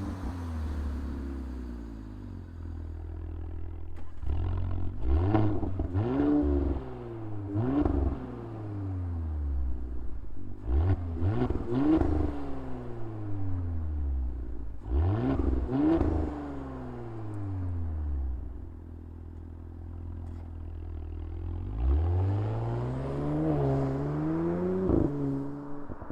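2018 Audi B9 S4's turbocharged 3.0 V6 through an Armytrix aftermarket exhaust, idling and being revved repeatedly: each rev climbs quickly and falls back slowly to idle, with a longer, more drawn-out climb near the end.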